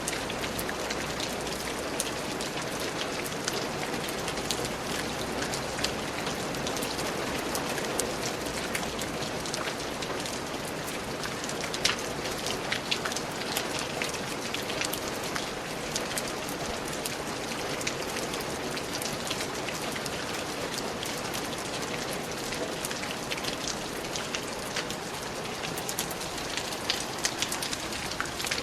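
Steady rain falling, with many individual drops pattering as close ticks over an even hiss.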